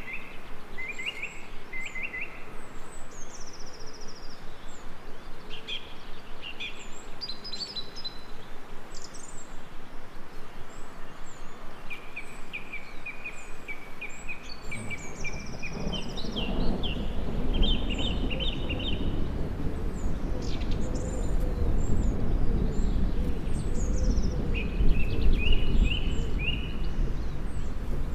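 Several songbirds singing, with repeated short chirps and trills. About halfway in, a low rumble rises underneath and carries on.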